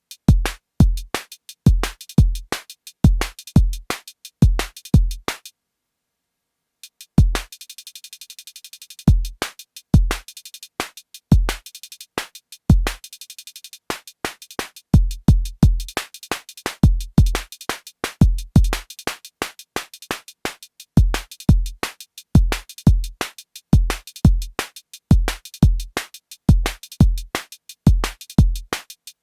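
Arturia DrumBrute Impact analog drum machine playing a looped beat of deep kick drums and short high ticks. About five and a half seconds in, the pattern stops dead for about a second and a half. It then restarts with a hissing high layer over the ticks before the kicks come back in.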